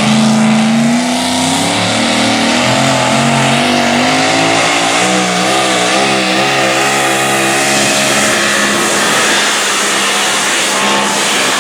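Modified four-wheel-drive pulling truck's engine running at high revs under load. Its pitch climbs at first, wobbles up and down mid-pull, and falls away near the end.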